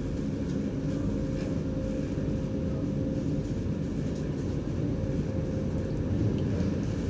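Steady low rumble with a constant hum in the driver's cab of an NS DDZ double-deck electric train.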